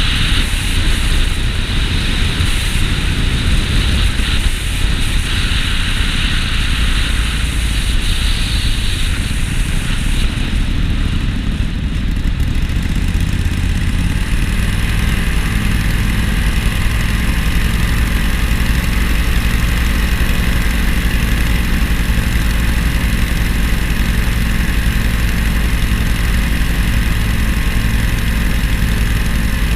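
An engine running steadily. For the first half a noisy rush lies over it, and from about halfway on a steady low hum holds.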